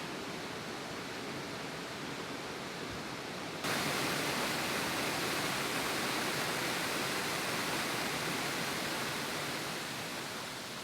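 Steady rushing of waterfall and river water. About a third of the way in, it abruptly becomes louder and brighter, as if switching to a closer or different stretch of the water.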